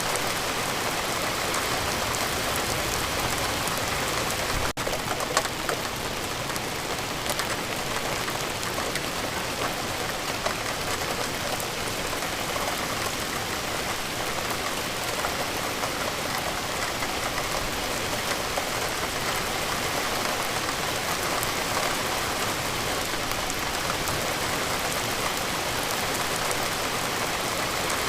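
Steady rain falling, a dense continuous patter of drops on surfaces.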